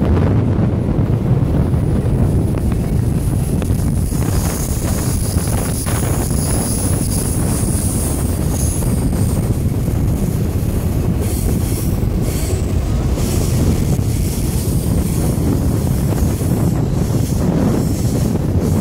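Alaska Railroad passenger train running on the rails, heard from an open door of the passenger car: a steady rumble of wheels on track. High wheel squeal rises over it for several seconds early on, and a few faint rail clicks come later.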